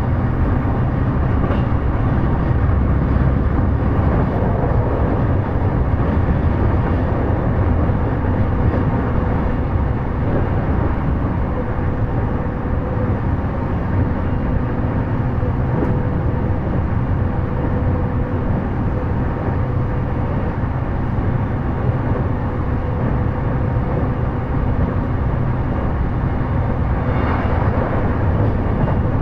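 JR East E233 series electric commuter train running at speed, heard from inside a passenger car: a steady rumble of wheels on rail with a faint steady hum. About 27 seconds in, a brief brighter hiss rises over the rumble.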